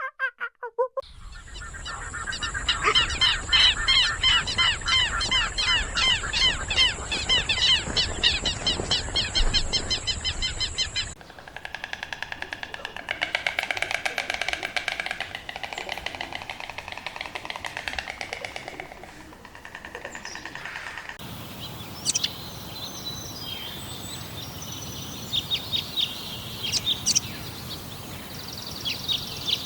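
Bird calls in three back-to-back clips: first a dense, fast run of repeated chirps, then a softer stretch, then scattered short chirps.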